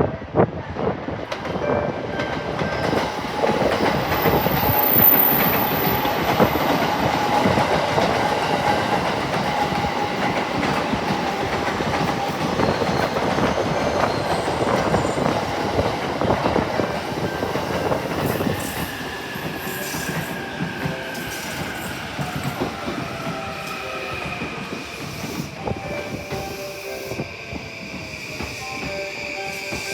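A 15-car E235-series Yokosuka Line train pulling into the platform, its wheels clattering over the rail joints. In the second half, as it slows, several whining tones fall slowly in pitch while the clatter thins out.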